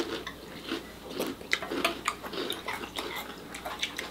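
Crunchy Cap'n Crunch cereal in milk being chewed: irregular sharp crunching crackles, with spoons clinking in ceramic bowls.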